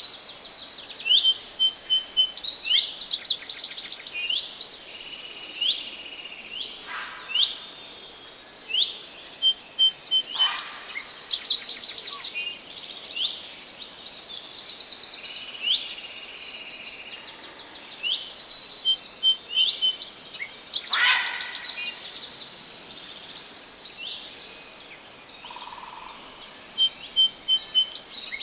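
Several forest songbirds singing and calling over one another: fast trills, rising whistled notes and short chirps, repeated throughout, over a faint steady background hiss.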